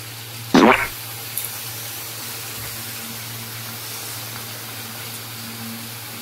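Raw chicken pieces frying in oil and onions in a kadhai: a steady sizzling hiss over a low hum, with one brief louder noise about half a second in.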